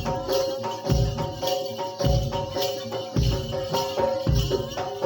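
Kuda lumping accompaniment playing: deep drum strokes about once a second with lighter strokes between them, jingling percussion, and steady held pitched tones from the ensemble.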